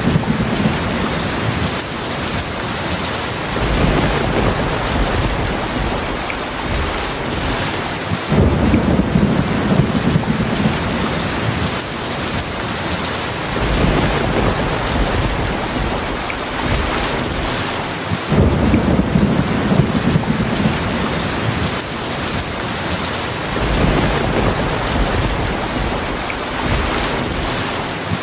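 Heavy rain falling steadily, with low rolls of thunder rumbling in about every five seconds.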